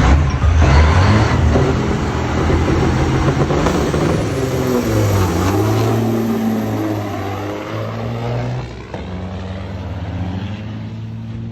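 Diesel truck engine running hard, its pitch sweeping down and back up midway, then fading steadily toward the end.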